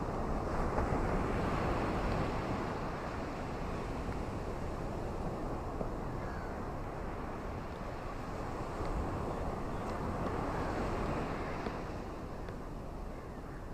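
Ocean surf washing onto a beach: a continuous rushing noise that swells twice, about a second in and again around ten seconds in, as waves break and ease off.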